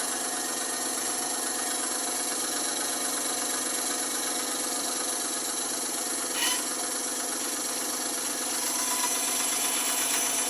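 Band saw running steadily, with a brief click about six and a half seconds in and a slight rise in level near the end.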